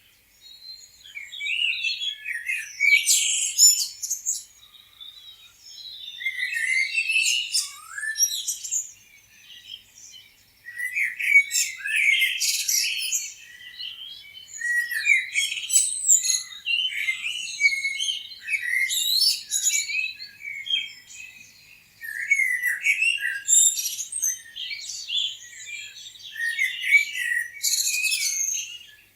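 Several small songbirds chirping and singing at once, high-pitched overlapping twitters and warbles that come in busy bouts of a few seconds with brief lulls between.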